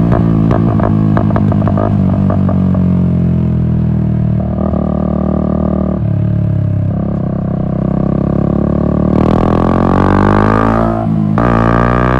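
Yamaha MT-125's single-cylinder four-stroke engine running through an Akrapovic exhaust while riding, a steady droning note with an uneven, fluttering beat in the first few seconds. Near the end the pitch climbs, drops briefly and climbs again.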